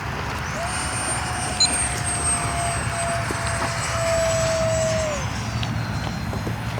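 Radio-controlled model airplane flying overhead, its motor giving a steady whine over wind-like noise. The whine holds for about four seconds and then drops off a little after five seconds in.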